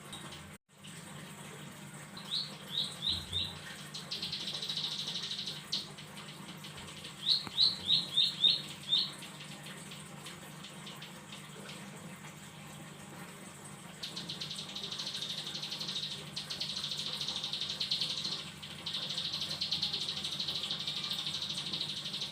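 Ciblek sawah (prinia) singing: two phrases of four or five sharp, clipped chirps, each run into a short buzzy trill, then after a pause a long rapid buzzy trill that breaks off once and resumes.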